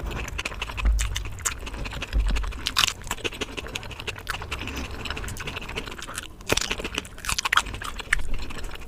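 A person chewing food close to the microphone, with many short, irregular clicks and a few dull low thumps.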